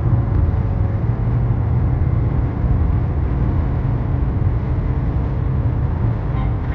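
Steady low rumbling noise, with faint higher hiss over it.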